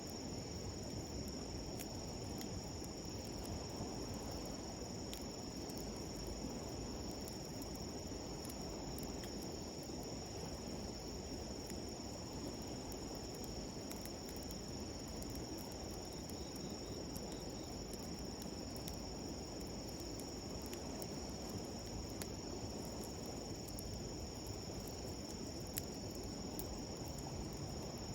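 Insects trilling steadily in a high, even band over the low, constant rush of a flowing river. A wood campfire gives a few faint, scattered crackles.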